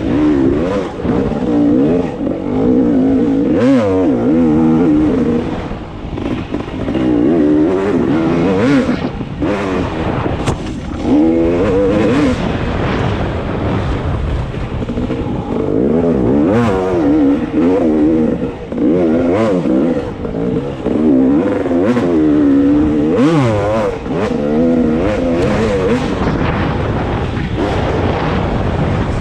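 Dirt bike engine running hard, its pitch climbing and dropping again and again as the rider twists the throttle on and off and shifts gears.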